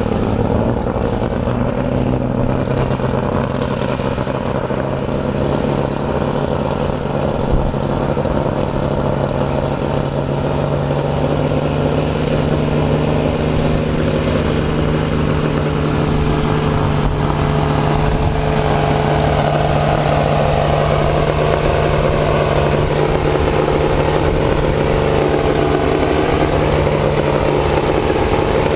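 Farmall 560 Diesel tractor's six-cylinder diesel engine running hard under load while pulling a sled, steady and loud throughout, its pitch wavering somewhat in the second half.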